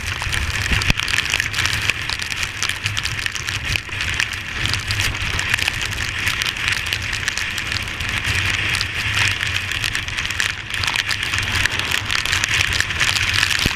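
Heavy rain and strong wind on a moving Yamaha Fazer 250 motorcycle: a dense, steady rush of rain noise, crackling with countless drops, over a low rumble.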